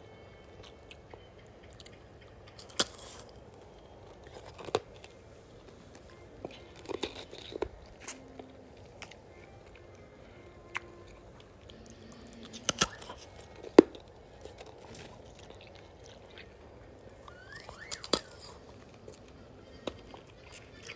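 Ice being chewed and crunched between the teeth: sharp, irregular crunches every second or few, some in quick clusters, the loudest about two-thirds of the way through.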